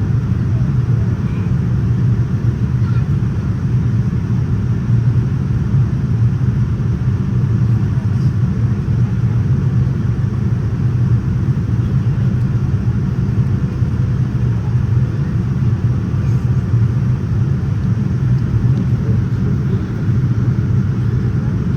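Steady low rumble inside the cabin of a Boeing 787-9 in flight: engine and airflow noise.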